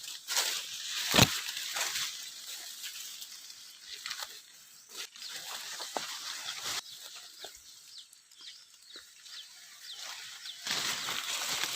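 Rustling and crackling of bushes and undergrowth being pushed through, with many small snaps and a sharp crack about a second in; the activity is quieter in the middle and picks up again near the end.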